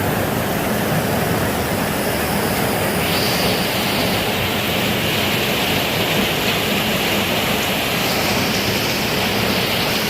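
Heavy rain falling: a loud, steady hiss that fills the whole range.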